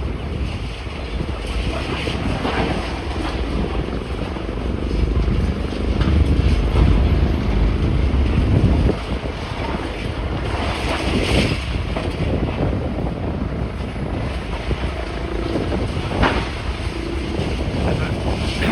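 Wind buffeting the microphone over a low, steady engine rumble, louder for a few seconds in the middle, with a few short knocks.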